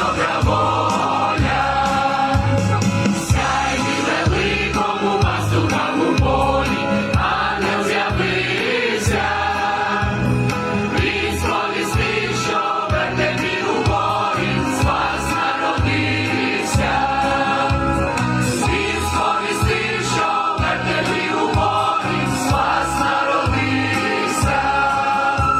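Church choir singing a Christmas carol to an accompaniment with a steady beat.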